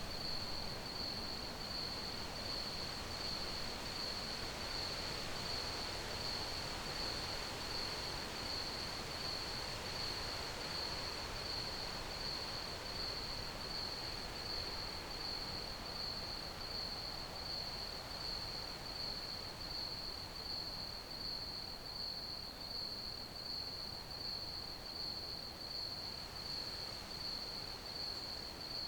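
Crickets chirping: a high, even chirp repeating steadily, pulsing about every half to one second, over a constant hiss of background noise.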